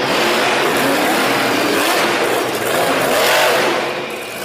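Loud, steady spray of water hosing mud off a toy monster truck, cutting off abruptly just after the end.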